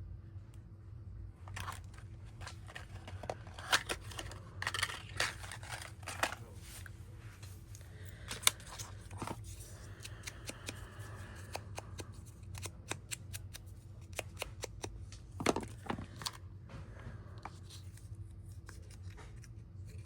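Paper and cardstock being handled at a craft table: irregular rustles, taps and small sharp clicks come in clusters, over a low steady hum.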